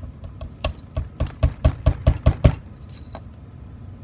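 Hammer tapping a 14k gold strip to flatten out a slight arc. A quick run of about nine sharp metal strikes, about four a second, loudest in the middle, with a few lighter taps before and one after.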